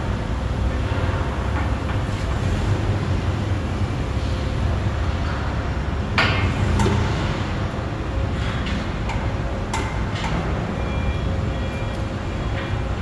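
Steady low mechanical rumble with a few sharp knocks over it, the loudest about six seconds in.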